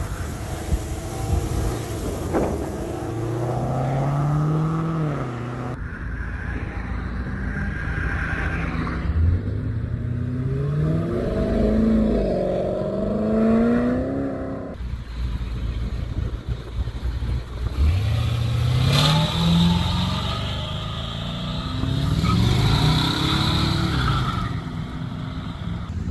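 Car engines revving and accelerating, several times, each engine note rising in pitch as the car pulls away.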